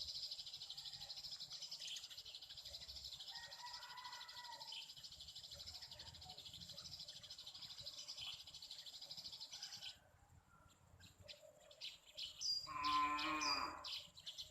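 Steady high chirring of insects that cuts off abruptly about ten seconds in. Short high bird chirps follow, and near the end comes a louder, wavering, drawn-out animal call.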